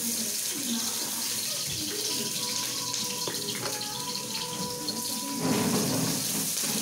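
Hot oil sizzling in a wok as ingredients are tipped in and stirred, the sizzle swelling louder about five and a half seconds in.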